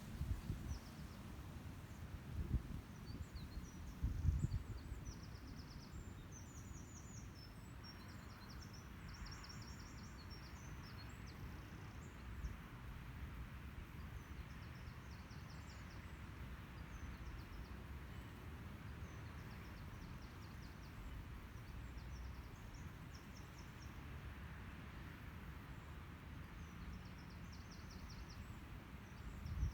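High, thin bird trills: short runs of rapid even notes, repeated every second or two over a low outdoor rumble. A few low thumps come in the first few seconds.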